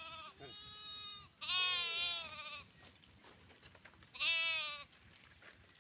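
Livestock bleating: four wavering, drawn-out bleats, two back to back at the start, the loudest a little later and a shorter one near the end.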